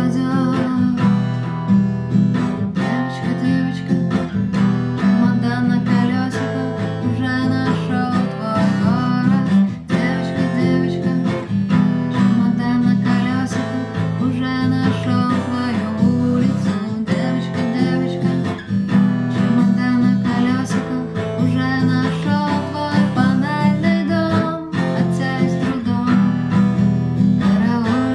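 Acoustic guitar strummed and picked in a continuous song passage without words.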